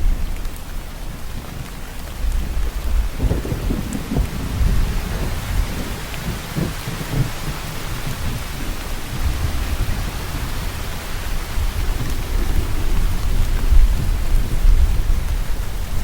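Steady rain hissing, with a low thunder rumble underneath that swells a few seconds in and again near the end.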